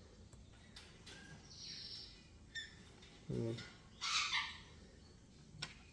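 Baby parrots giving short, scattered squawks and chirps: one falling call about one and a half seconds in and a louder, rasping call about four seconds in. These are food-begging calls of young parrots at hand-feeding time.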